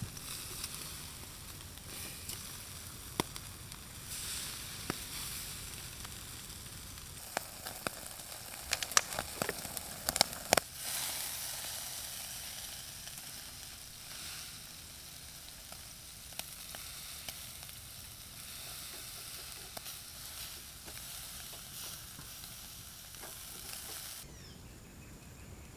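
Pork belly sizzling on a grill: a steady hiss, with a burst of sharp pops of spitting fat about nine to eleven seconds in. The sizzle drops away abruptly near the end.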